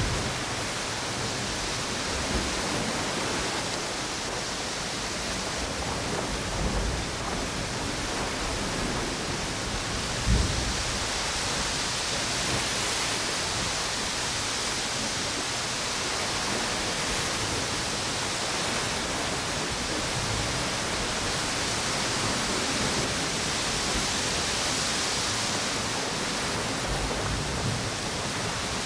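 Storm wind and ocean surf on a beach: a steady rushing hiss. Low gusts buffet the microphone now and then, hardest about ten seconds in.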